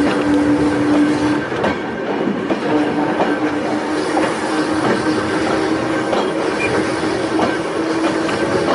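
Volk's Electric Railway car running along the track: a steady hum over a running rumble, with the wheels clicking over rail joints now and then.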